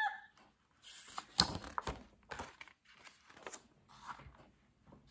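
A page of a large picture book being turned by hand: paper rustling and crinkling, with a sharp flap about a second and a half in and softer rustles after it.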